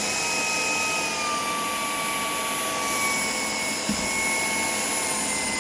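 Shark Power Detect cordless vacuum running with a steady high motor whine that drifts slightly lower rather than ramping up: its Power Detect is not sensing the crumbly debris it is passing over. A small knock about four seconds in.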